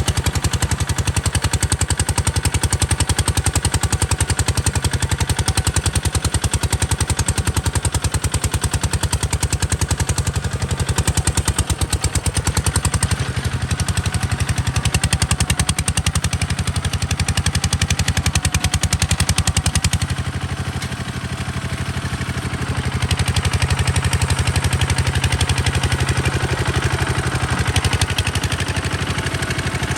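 Kubota RT140 DI single-cylinder diesel engine running with a rapid, even chain of exhaust beats. It eases off and sounds quieter for a few seconds about two-thirds of the way through, then picks back up.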